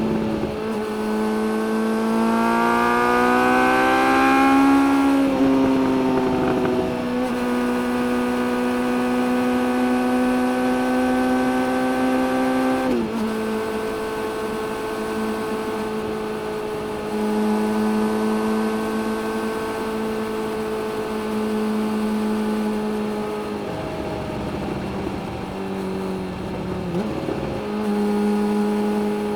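Suzuki GSX-600F inline-four engine running under way as the bike is ridden. The engine pitch rises under acceleration in the first few seconds, then holds steady at cruising revs. It drops sharply once about halfway through, and wavers and dips again near the end before settling.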